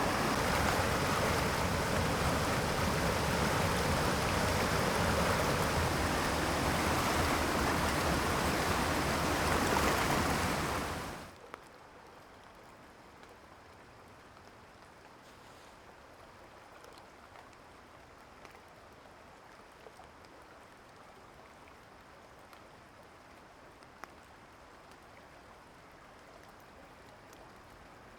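Rushing mountain stream rapids, a loud steady rush of water, which cuts off suddenly about eleven seconds in to a much fainter, steady water sound with a few light ticks.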